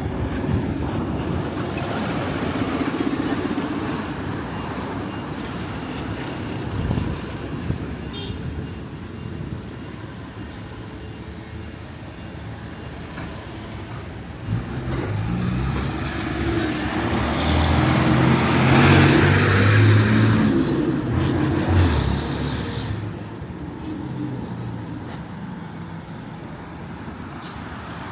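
Street traffic: the engine of a motor vehicle approaches, passes close by and fades away, loudest about two-thirds of the way through, over steady background traffic.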